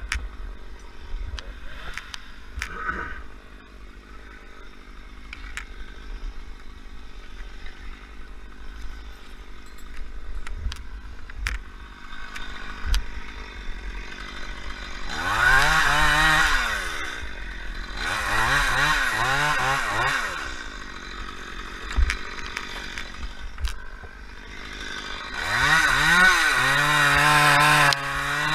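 Chainsaw revved hard three times, each burst rising quickly in pitch, holding, then dropping back. Between bursts it runs much quieter, and there are scattered knocks in the first half.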